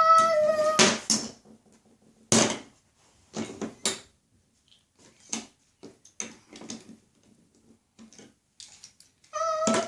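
Short clicks and knocks of toy train set pieces being handled, scattered through the middle. A long, steady high-pitched call is heard at the start and again near the end.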